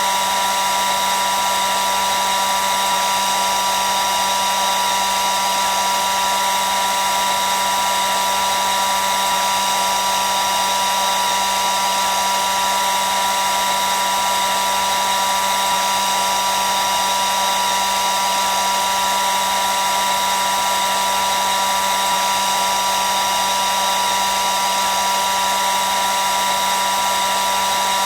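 Hair dryer running steadily: an even rush of blown air with a constant high motor whine, unchanging throughout.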